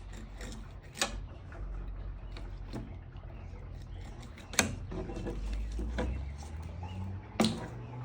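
Fish being filleted by hand: scattered small clicks and three sharp knocks from the knife and fish on the cleaning surface, about a second in, around four and a half seconds, and near the end, over a low steady hum.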